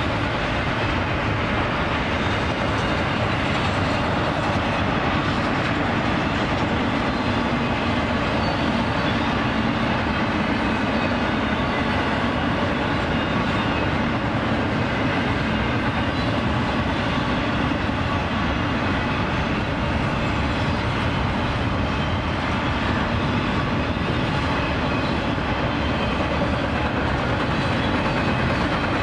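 Double-stack container train rolling past: the steady noise of steel wheels running on the rails as the loaded well cars go by, level and unbroken throughout.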